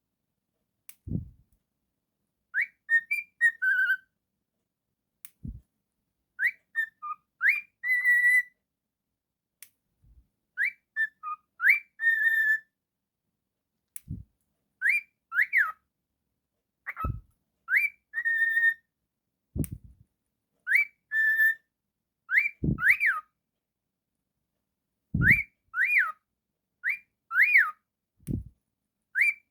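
Cockatiel whistling a short tune over and over, each phrase a few quick rising notes ending on a held note, repeated every two to three seconds. Short low thumps come between the phrases at about the same pace.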